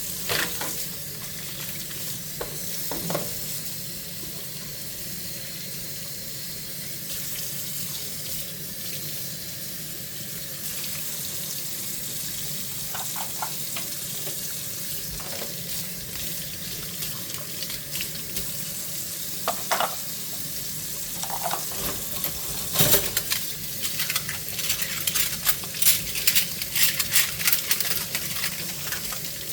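Hand-washing dishes at a kitchen sink: a steady hiss of running water with a few scattered clinks of dishes. About three quarters of the way through comes a stretch of quick, irregular scrubbing and crackling.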